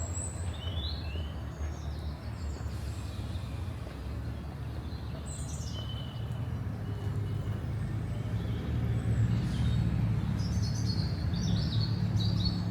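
Small birds chirping and twittering in short, scattered calls over a steady low rumble of city traffic, which grows a little louder in the second half.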